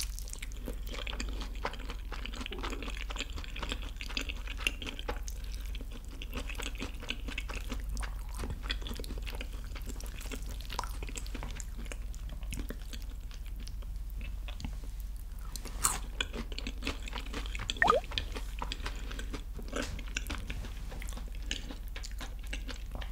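Close-miked chewing of a sweet-spicy sauced (yangnyeom) fried chicken drumstick: a dense run of small crunches and crackles as the crisp coating breaks between the teeth. Two sharper crunches come about two-thirds of the way through.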